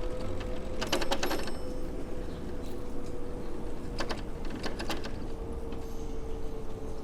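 City street noise heard from a moving bicycle: a steady low rumble, with a sustained siren-like tone slowly falling in pitch. Two short bursts of rapid clicking come about a second in and again around four seconds in.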